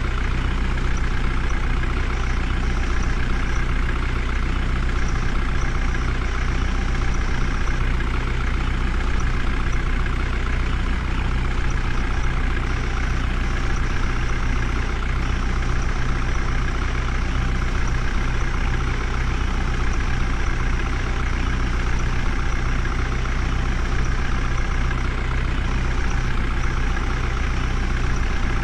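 Heavy diesel engine of a tractor or JCB backhoe loader running steadily at a constant low pitch, with no revving or change.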